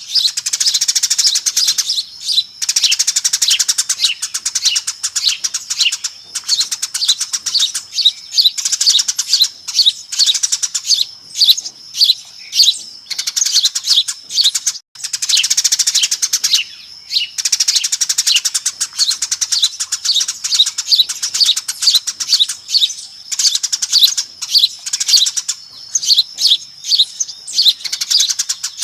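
A flock of Eurasian tree sparrows chirping busily and without pause, many rapid overlapping chirps: a noisy sparrow lure call. The chirping cuts out for an instant about halfway through.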